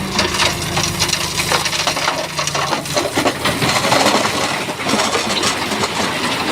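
Shantui bulldozer pushing rock: stones clatter, knock and grind against each other and the blade throughout, over the dozer's engine running steadily. The engine tone is plain in the first half and fades under the rock noise later.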